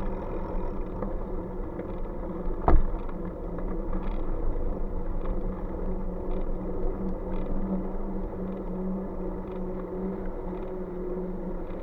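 Steady rumble and low hum of riding along a road, with one sharp knock almost three seconds in.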